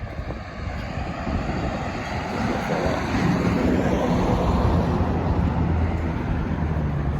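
A motor vehicle drawing near, growing louder from about two and a half seconds in, with a low steady engine hum under the road noise. Wind rumbles on the microphone.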